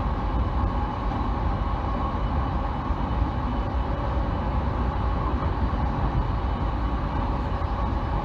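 Steady running noise of a JR Negishi Line commuter train heard from inside the passenger car: an even rumble of wheels on rails, with no breaks or sudden events.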